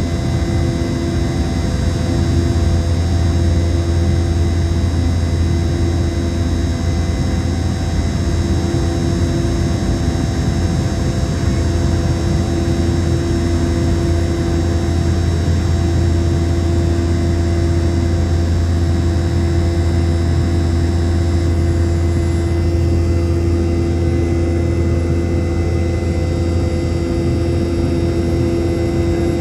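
Boeing 717-200's Rolls-Royce BR715 turbofans running steadily, heard from inside the cabin: a loud, steady low hum with several steady whining tones over a hiss. The high hiss and whine ease a little near the end.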